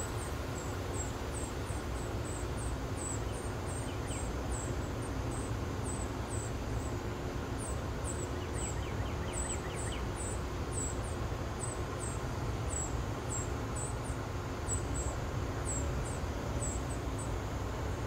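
High, thin bird chirps repeating two or three times a second, with a short rapid trill about halfway through, over a steady low rumble.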